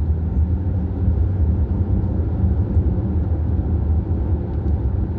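Steady low rumble of a vehicle driving along a road: engine and tyre noise with no distinct events.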